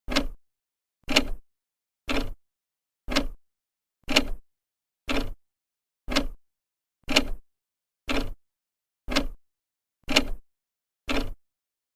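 Old clock's second hand ticking, one short sharp click a second in a steady rhythm, with silence between the ticks.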